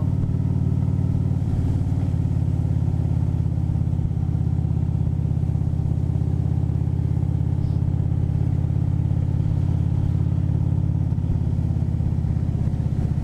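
Harley-Davidson V-twin engine running steadily at road speed, a low, even pulsing drone.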